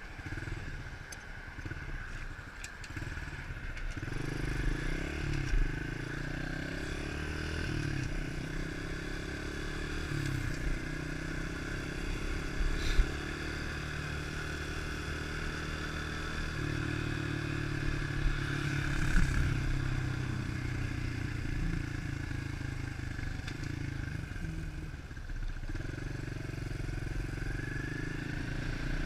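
A 110cc four-stroke pit bike engine running as it is ridden, its pitch rising and falling with throttle and gear changes, with a sharp knock about 13 seconds in.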